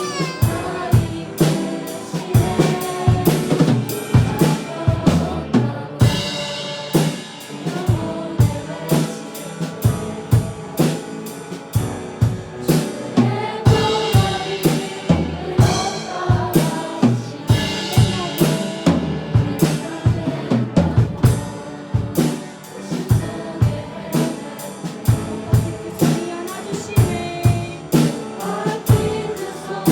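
Live worship band playing a praise song: a drum kit beats steadily with snare hits under piano and a group of voices singing.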